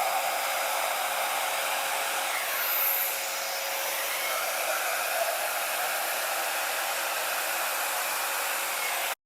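Small hair dryer blowing steadily, cutting off suddenly just before the end.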